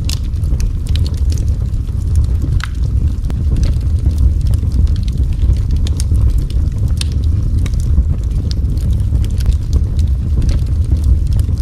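Wood fire in a fireplace burning with a steady low roar and scattered sharp crackles and pops.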